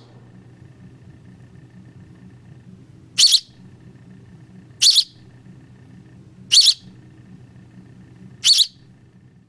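A young hand-reared bird chirping: four short, high-pitched chirps spaced about one and a half to two seconds apart, over a faint steady hum.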